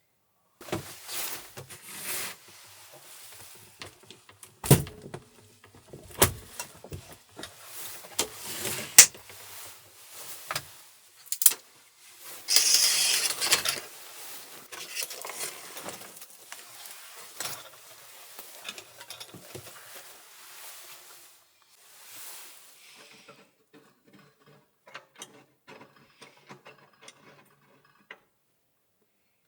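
Objects being handled at close range: a string of clicks and knocks, a loud rustling burst about twelve seconds in, then lighter, quicker ticking near the end.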